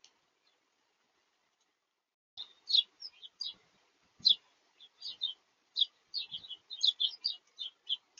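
Small birds at a feeder chirping: a quick, irregular run of short, high chirps that starts about two and a half seconds in and keeps going.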